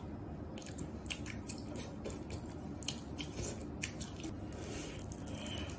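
Close-up chewing and eating sounds, with short sharp clicks scattered throughout as chopsticks stir through noodles and meat in a glass bowl.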